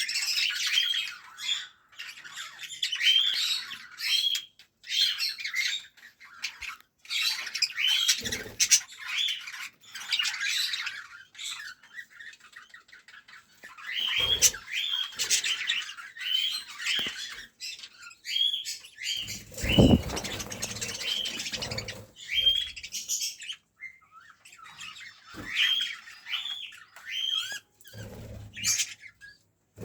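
Caged small parrots and finches in an aviary calling all together: many short, repeated squawks and chirps, coming in runs with short pauses. There is a brief low rumbling noise about twenty seconds in.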